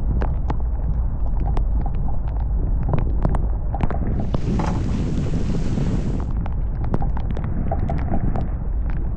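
Wind buffeting the microphone aboard a sailboat under sail, a loud steady low rumble broken by many short sharp knocks and ticks, with a brief rushing hiss about four seconds in.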